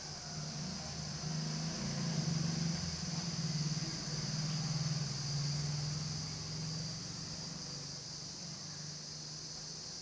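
A low engine hum swells over the first couple of seconds and fades away over the next several, as of a motor vehicle passing, over a steady high-pitched insect chirring.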